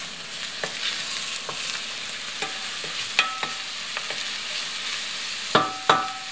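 Shredded cabbage, carrot, onion and diced pork belly sizzling as they fry in vegetable oil in an enamel pot, while a wooden spatula stirs and knocks against the pot. Two sharper knocks near the end set the enamel pot ringing briefly.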